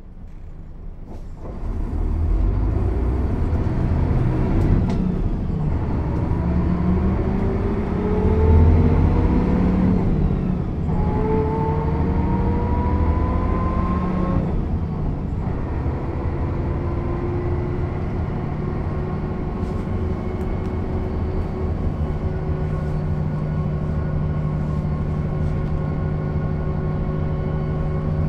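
1996 Mercedes-Benz O 407 bus's six-cylinder diesel engine pulling away and accelerating: its pitch rises, drops at two gear changes of the manual gearbox, rises again, then holds steady as the bus cruises.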